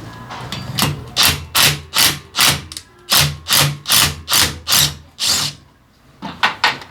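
Ratchet wrench worked in quick, even strokes, about two and a half a second, pausing briefly, then a few more strokes near the end, while bolts on a Daelim Citi Ace 100 engine are undone.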